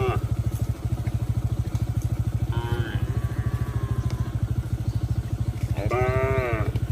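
A small motorcycle engine runs steadily with a fast, even pulse, while cattle moo twice, two drawn-out calls that rise and then fall in pitch.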